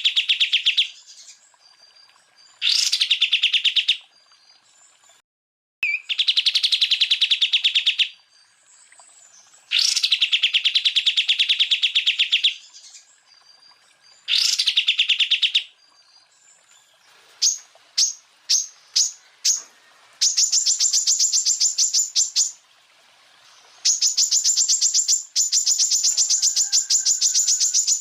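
Green leafbird (cucak ijo) singing its rapid 'tembakan' burst phrases: four fast, buzzy trills of two to three seconds each, then five short sharp notes about two thirds of the way in, then longer, higher-pitched rapid trills near the end.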